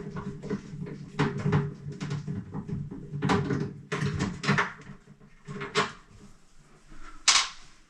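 Irregular sharp clicks and light knocks of hands working on a tankless water heater's front casing and control knob, over a faint steady low hum; the loudest knock comes near the end.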